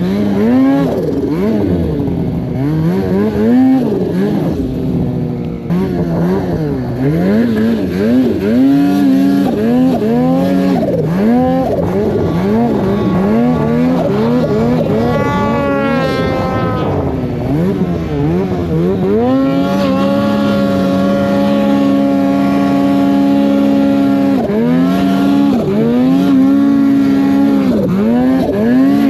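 Snowmobile engine being ridden hard in deep snow, its pitch rising and falling over and over as the throttle is worked. About twenty seconds in it holds a steady pitch for several seconds, then goes back to revving up and down.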